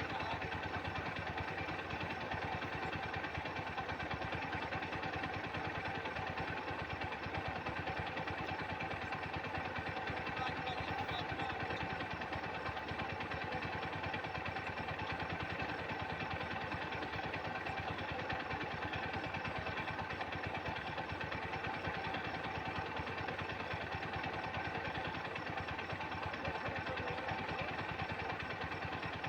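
Swaraj tractor's diesel engine running steadily at an even, unchanging speed.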